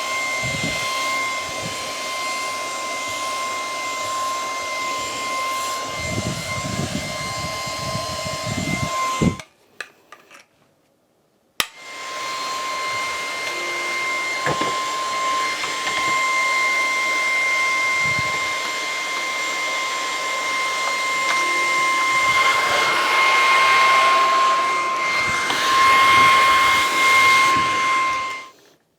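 Lupe Pure cordless stick vacuum running with a steady high motor whine. It is switched off about nine seconds in and back on about two seconds later, then stops again near the end.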